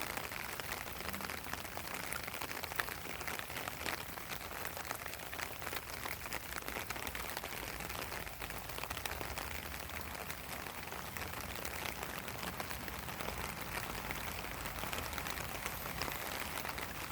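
Steady rain falling on a pond, a continuous hiss dotted with the ticks of many separate drops.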